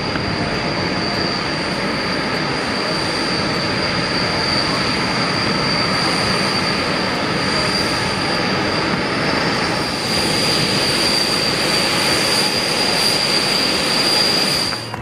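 Jet engine running steadily on the ground, a high, unwavering turbine whine over a loud rush that neither rises nor falls.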